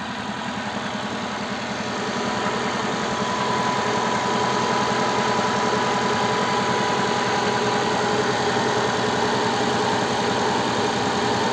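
Daewoo Gentra's petrol engine running at a fast cold-start idle of about 1400 rpm after a −20 °C night, heard at the open engine bay. The fuel injectors tick lightly, and the power steering makes no audible noise.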